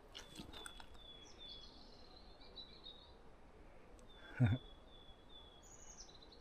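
Small songbirds singing: runs of short, quick, high repeated notes, with a higher note near the end. A single loud, brief thump about four and a half seconds in.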